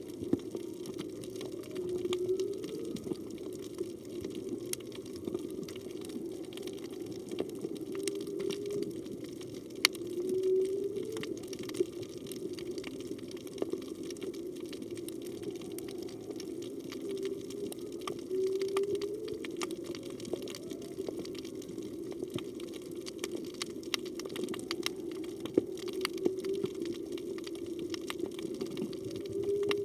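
Whale calls heard underwater, which the recordist takes for humpback whale song: short rising moans repeating every few seconds, over steady crackling clicks and the underwater hiss.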